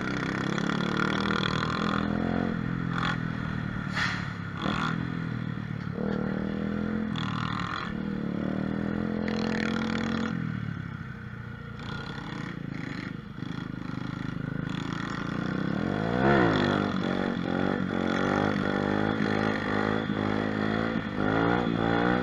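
Small-displacement mini moto (pit bike) engine running under riding, revving up and down over and over, with a sharp drop and climb in revs about two-thirds of the way in.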